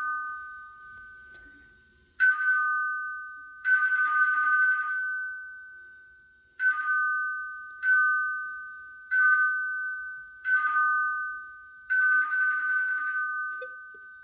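A metal bell rung in about seven irregular bursts of rapid strikes. Each burst rattles, then rings on as a high two-note tone that fades away before the next one.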